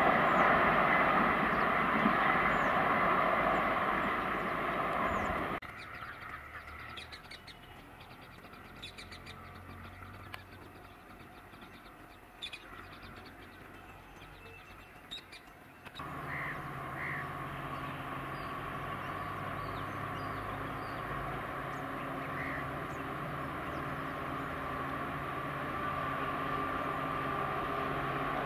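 A train running away down the track, its rumble fading; about six seconds in this cuts to a quieter stretch of birds chirping and cawing. About sixteen seconds in comes the steady hum of an EMD WDP4D diesel locomotive's two-stroke V16 engine, growing slowly louder as it approaches.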